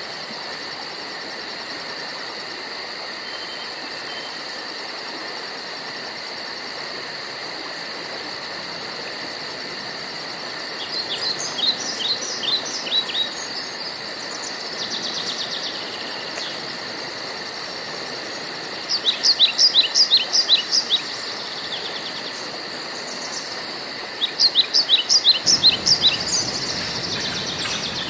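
Woodland ambience: insects trilling steadily in a high, even pulse, while a songbird sings three short phrases of quick, downward-sliding notes.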